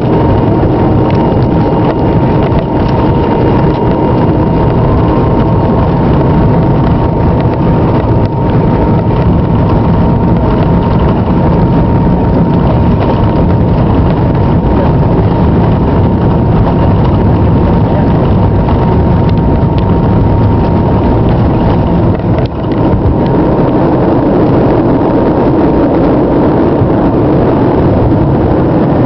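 Jet airliner heard from inside the cabin, its engines running loud and steady: a dense rush with a steady high whine over it.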